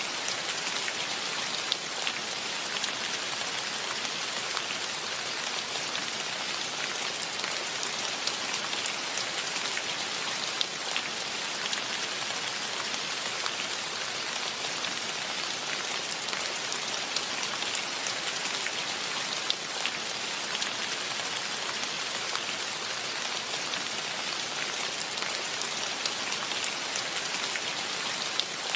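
Steady rain falling, an even hiss with many small individual drop ticks scattered through it.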